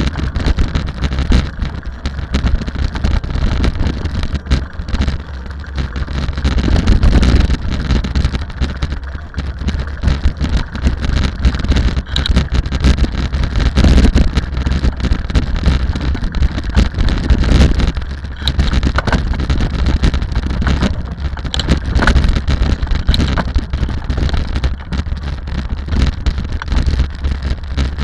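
Rally car driving at speed: engine and road noise swelling and easing every few seconds, with heavy wind buffeting on the microphone.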